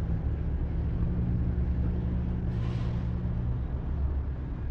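Diesel truck engine idling with a steady low rumble, and a short hiss of air about two and a half seconds in.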